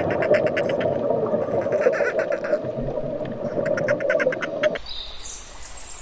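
Dolphin clicking underwater: repeated trains of rapid clicks, about a dozen a second, over steady underwater noise, cutting off abruptly near the end. After it, a bird chirps faintly.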